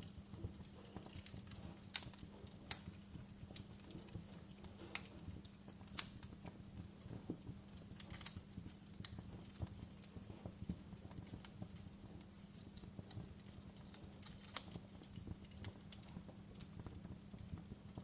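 Wood fire in a fireplace crackling: irregular sharp snaps and pops, a few louder ones in the first six seconds, over a steady low hum.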